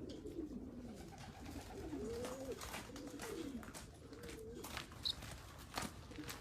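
Racing pigeons cooing in a loft: several low, rising-and-falling coos overlapping one another, with scattered light clicks and taps in the second half.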